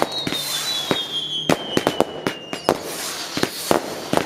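Fireworks display: rapid, irregular sharp bangs of exploding shells over a crackling haze, with a long high whistle that slowly falls in pitch and stops a little over halfway through.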